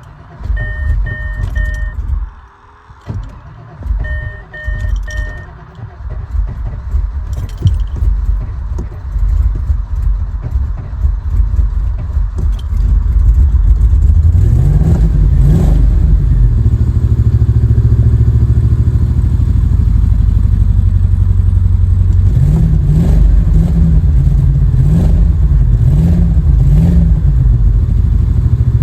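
Land Rover Discovery 2's 4.6-liter V8 cold-started in sub-zero cold: two runs of three short beeps, then a long, uneven crank of about ten seconds before the engine catches. Once running it settles into a loud idle, is revved up and back down once, then blipped four times in quick succession. It is a hard cold start, which the owner calls a really bad start.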